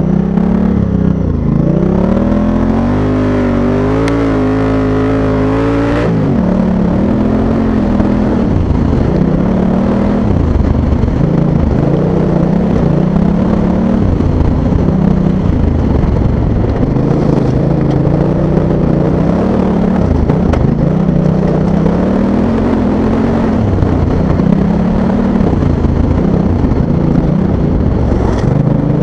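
Honda Africa Twin's parallel-twin engine under load on sand, its revs climbing smoothly for a few seconds, then rising and falling again and again over a rough, hissing noise.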